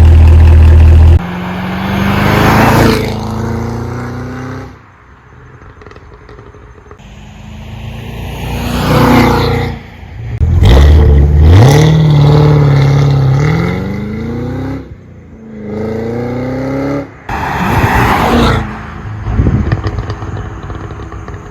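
2022 Cadillac CT5-V Blackwing's supercharged V8 in a series of drivebys. The car passes about four times, each pass swelling to a peak and then dropping in pitch as it goes by. On one pass the revs climb steadily as it goes by.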